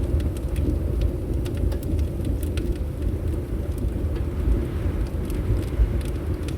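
Fireplace crackling, with scattered sharp pops over a steady low rumble of winter wind.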